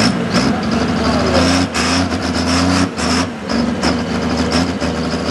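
Pulling truck's engine running fairly steadily, with a few sharp clicks over it.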